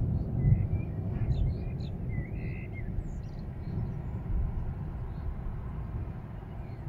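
Small birds chirping in short calls, mostly in the first three seconds, over a low, uneven rumble that slowly eases off.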